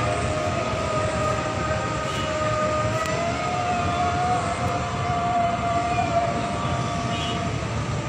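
A train running past, with a low rumble under a steady whine whose pitch wavers slightly.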